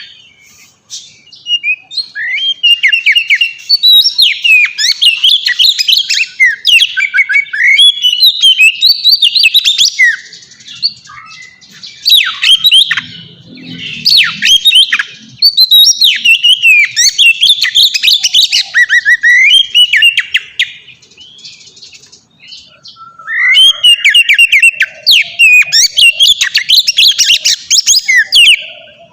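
Oriental magpie-robin (kacer) singing loudly in long, varied runs of rich whistles and rapid trills, in bouts broken by brief pauses about a second in and again a little over two-thirds of the way through.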